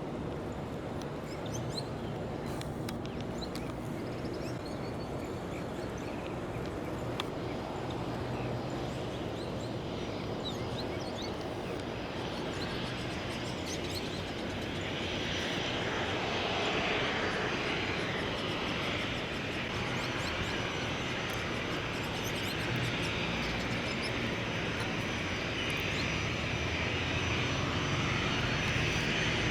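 Boeing 737-300's CFM56-3 turbofan engines running with a steady whine and low hum, growing louder about halfway through.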